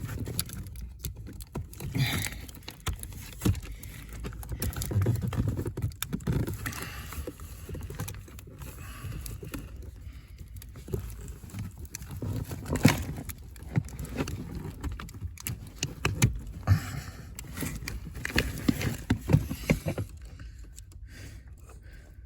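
Hands working a large multi-pin wiring connector loose behind a car's glove box: scattered plastic clicks, knocks and rustling at an uneven pace, with one sharper knock about halfway through.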